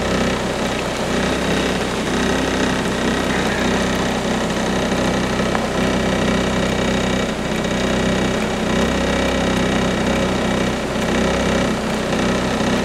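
Steady heavy rain and floodwater running over the pavement, with a steady mechanical hum underneath.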